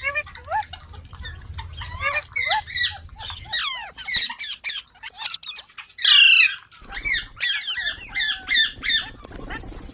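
Ringneck parrots calling: a rapid run of short chirps and squawks, with a louder, harsh squawk about six seconds in.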